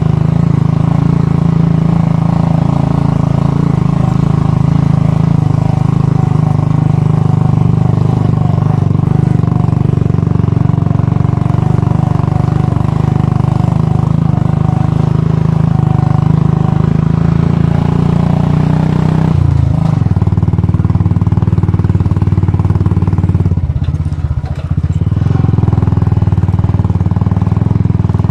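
Royal Enfield Bullet's single-cylinder engine running steadily while riding, its low note briefly breaking twice in the last third.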